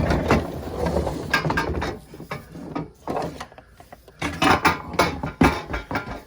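Knocks, clicks and clatter of the float boat's pieces and motor being handled and set down inside the vehicle. A heavier rumble of moving gear comes in the first two seconds, then scattered knocks, bunched about a second and a half in and again near the end.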